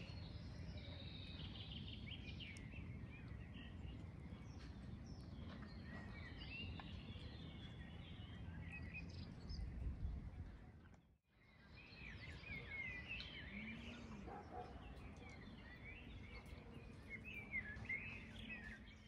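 Faint outdoor ambience: small birds chirping and twittering over a low, steady background rumble. The sound drops out for a moment about halfway through, then the chirping resumes, busier toward the end.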